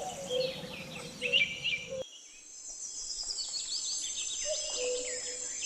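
Outdoor nature background of small birds chirping and insects trilling in a steady high buzz, with an abrupt change about two seconds in.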